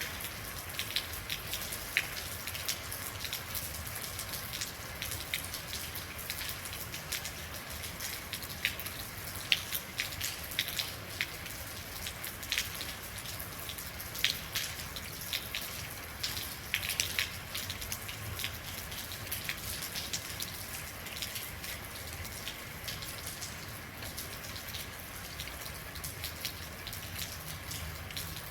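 Real rain falling steadily: a continuous hiss with many individual drops landing close by as sharp, irregular ticks.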